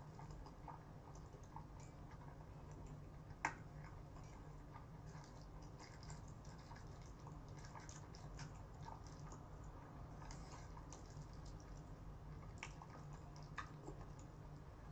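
Faint, close-miked chewing of a mouthful of spicy cold noodles (bibim-naengmyeon), with many small wet mouth clicks over a low steady hum, and one sharp click about three and a half seconds in.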